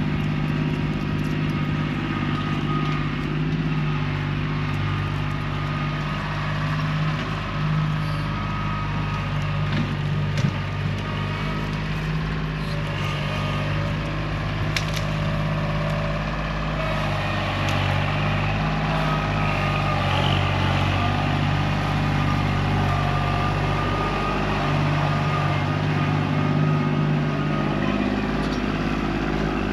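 Kubota tractor's diesel engine running steadily, with a few short knocks about ten to fifteen seconds in.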